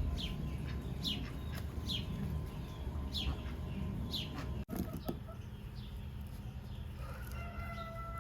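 Birds chirping: short, high, falling chirps about once a second over a low rumble, stopping at a cut about halfway through. A steady held tone comes in near the end.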